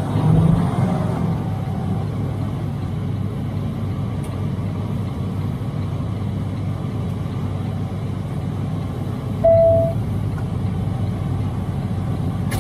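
Steady drone of a Freightliner semi's Detroit DD13 diesel and road noise, heard inside the cab while driving. One short beep sounds about nine and a half seconds in.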